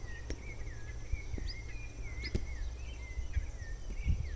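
Birds chirping in repeated short, quick-sweeping calls, over a steady low rumble, with a few faint knocks.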